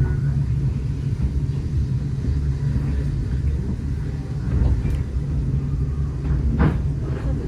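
Steady low rumble of a railway carriage running along the track, with an occasional knock, the clearest near the end.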